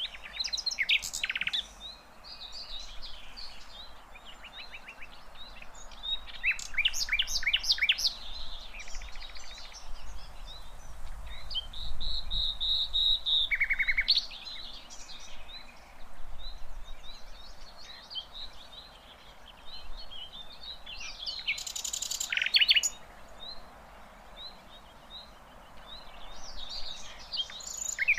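Sikatan londo flycatcher singing in the wild: bursts of rapid, high chirping and trilling phrases, about five or six song bouts with short gaps between, over a steady background hiss.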